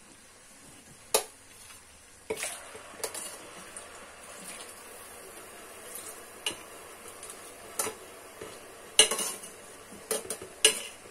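Boiled eggplant cubes sizzling as they slide into hot vegetable oil in an aluminium pot; the sizzle starts about two seconds in and holds steady. A wire skimmer clinks sharply against the enamel plate and the pot rim now and then, loudest about nine seconds in.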